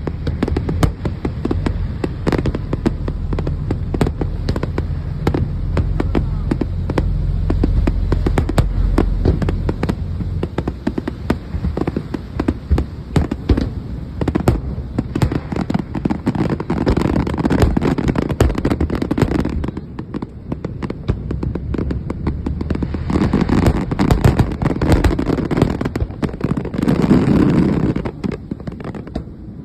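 Large fireworks display: rapid, overlapping shell bursts and crackling. A heavy low rumble runs under the first ten seconds or so. Later come thick crackling salvos, with the densest near the end.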